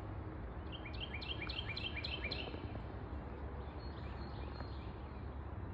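A songbird calling a quick run of about seven short, clear repeated notes, roughly four a second, about a second in, followed by fainter calls. A steady low rumble sits underneath.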